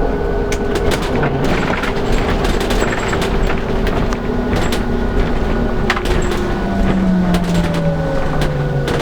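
Inside a LiAZ-5292.65 bus under way: a steady engine and drivetrain drone with road noise, and a whine that falls in pitch near the end. Frequent clicks and rattles from the body and fittings.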